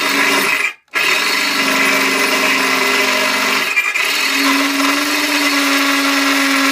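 Electric drill running at high speed in two long runs, with a brief stop about a second in; its pitch shifts slightly partway through.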